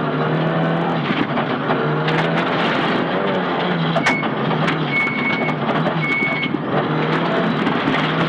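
Nissan Silvia S15 rally car's engine running steadily under load on a special stage, with scattered sharp clicks. Three short high beeps sound between about four and six and a half seconds in.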